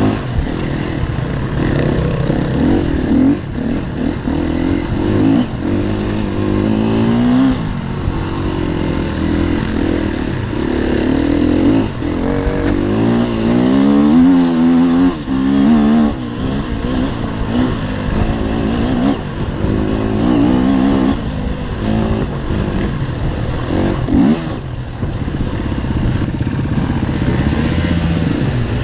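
Enduro dirt bike engine revving up and down as it is ridden over rough ground, its pitch rising and falling again and again, with the most marked run of revs about halfway through.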